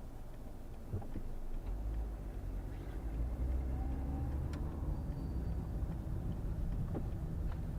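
Low rumble of a car driving, heard from inside the cabin, growing louder about two seconds in, with a few faint clicks.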